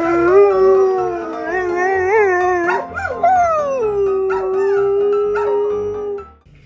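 A dog howling: one long wavering howl that rises and falls for about three seconds, then settles into a steady held note that stops shortly before the end.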